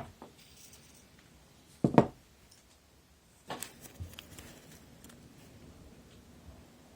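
Handling noise of hard parts being moved and set down: a sharp knock about two seconds in, a second knock about a second and a half later, then faint clicking and rustling.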